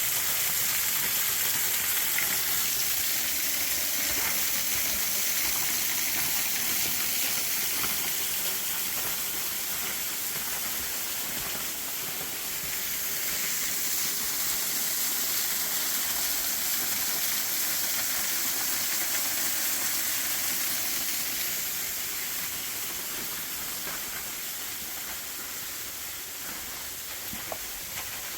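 Keyhole Falls pouring steadily: a constant rushing hiss of falling water, slightly quieter in the last few seconds.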